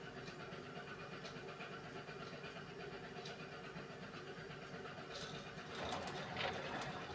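Beko washing machine running a hand wash cycle: a steady motor hum with faint regular ticks as the drum turns. A louder swish of water and laundry comes in about six seconds in.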